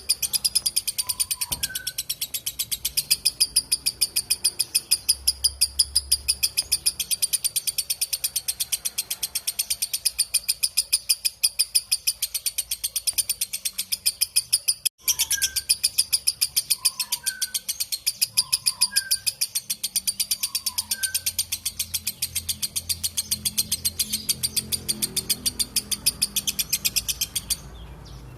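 Lovebird's long 'ngekek' song: a rapid, unbroken run of shrill chattering notes, several a second, with a short break about halfway and stopping just before the end. A few softer, lower chirps sound alongside it.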